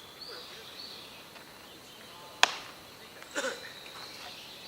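A single sharp crack of a baseball impact about halfway through, the loudest sound here, followed about a second later by a brief distant shout. Faint high chirping sits in the background near the start.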